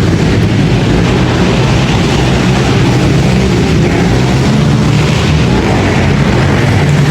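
Pit bike engines running hard, loud and steady with a dense, distorted engine noise throughout.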